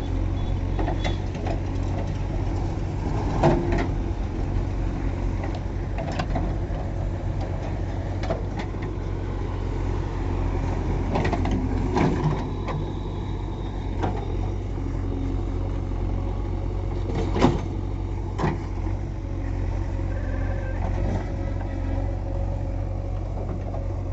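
JCB 3DX backhoe loader's diesel engine running steadily under work, with a few sharp knocks along the way.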